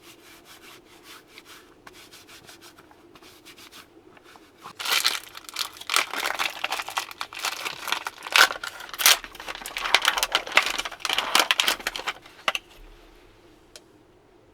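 Crinkling and rubbing handling noises: faint scattered crackles, then a dense, louder run of crackling from about five seconds in that fades out after about twelve seconds.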